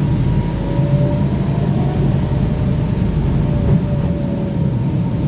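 Cabin noise inside a moving BKM-32102 trolleybus: a steady low rumble from the ride, with a thin, nearly level whine from the electric traction drive.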